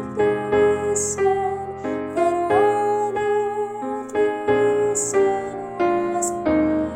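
Slow piano accompaniment, with chords struck one after another under a sustained melody line that slides up to a higher note about two and a half seconds in.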